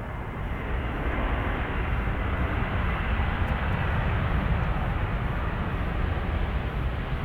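Jet airliner engines at high power, a loud rushing noise that swells over the first second and then holds steady, with a faint whine running through it.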